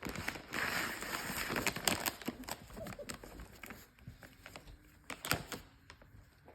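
Yorkie puppy rummaging in a gift bag: dense rustling and crinkling with many small clicks for about three seconds, then sparser clicks and taps, with one sharp click about five seconds in.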